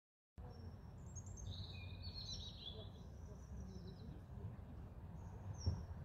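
Outdoor ambience cutting in just after the start: a low steady rumble with small birds chirping in quick high trills, busiest from about one to three seconds in. A brief low thump comes near the end.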